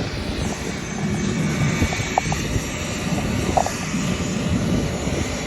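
Steady jet engine noise from a departing Boeing 757-200 airliner, holding level throughout.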